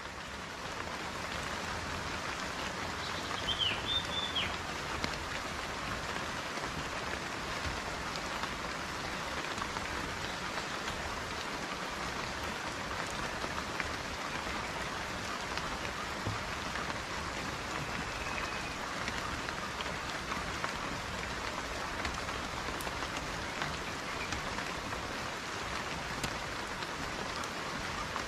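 Steady, dense rain falling in a rainforest, an even hiss throughout. A few short bird chirps come about three to four seconds in, and a faint one comes later.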